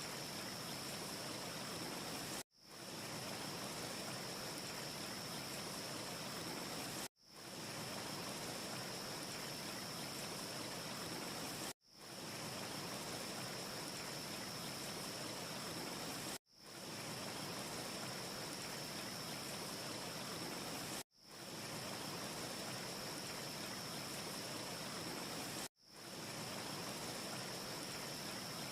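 Steady, even hiss of a short looped ambience track, with a thin, steady high tone over it. The loop cuts out for a split second about every four and a half seconds (six times) and fades back in each time. No fire crackle can be picked out.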